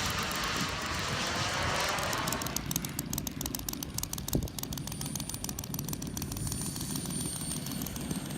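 Turbine-powered RC model jet passing, its whine sweeping with curving, comb-like tones. About two and a half seconds in the higher sound drops away, leaving a steady low rumble.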